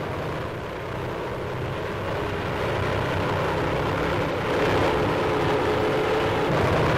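A steady engine drone, like an aircraft's, under old-film hiss, growing louder about four and a half seconds in.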